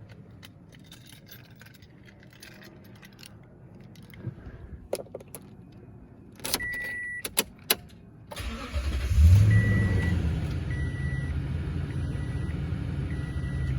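Keys jangle and click in the ignition and a short chime sounds. About eight seconds in, the 2016 Toyota Tundra's 5.7-litre V8 cranks and starts, flares briefly, then settles to a steady idle while a dashboard warning chime beeps about once a second.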